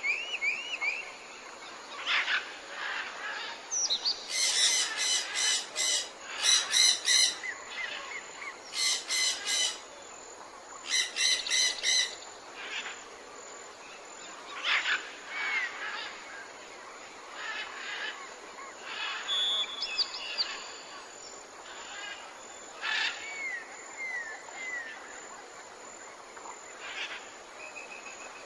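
Several songbirds singing and calling. About four seconds in, a series of loud, rapid trilled phrases repeats four times; short chirps and runs of falling whistled notes follow, all over a faint steady outdoor hiss.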